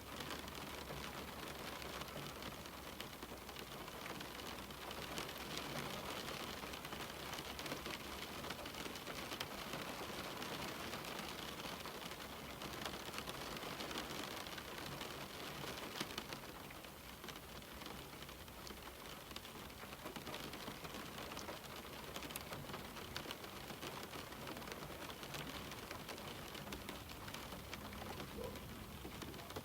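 Steady rain pattering on a window pane, a continuous hiss dotted with many small drop ticks, easing slightly for a few seconds in the middle.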